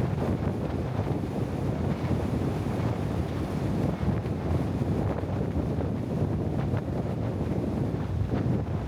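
Steady wind buffeting the microphone over a continuous low rumble of movement.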